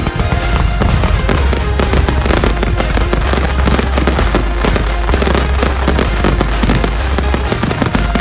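Fireworks crackling and popping in quick succession over music with a heavy, steady bass line.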